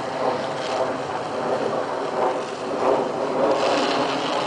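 Michelin Jet bicycle tyres rolling over a wet, ice-glazed road, a steady hissing rumble mixed with wind on the microphone. A brighter hiss rises about three and a half seconds in.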